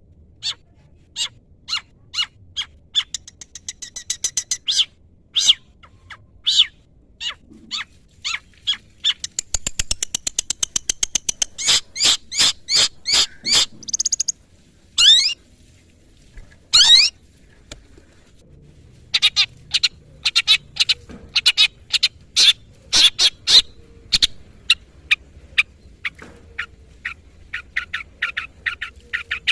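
Long-tailed shrike (cendet) singing a song full of mimicked calls: strings of sharp chattering notes and fast trills, broken about halfway through by two sweeping whistles, then more rapid sharp notes.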